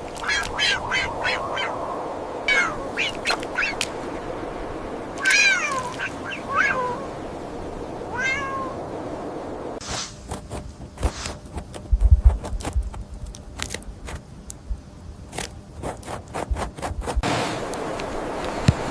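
A series of short, high animal calls, some gliding downward in pitch. About ten seconds in they give way to a run of rapid clicks and knocks with a low thump near the middle.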